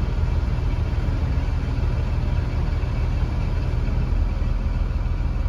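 2015 Blue Bird Vision school bus running, heard from inside as a steady low engine rumble.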